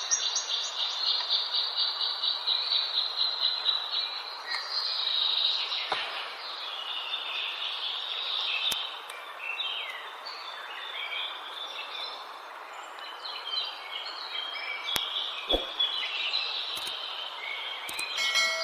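Several birds singing in a forest: a fast, high trill of rapidly repeated notes for the first few seconds, then assorted chirps and short phrases. Underneath runs a steady background hiss, with a few brief clicks.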